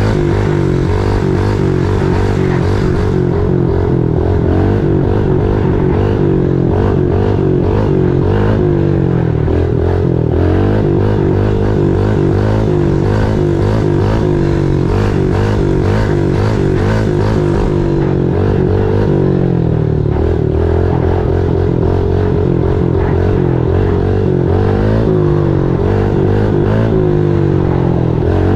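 Small single-cylinder four-stroke pit bike engine running under way, its revs rising and falling over and over.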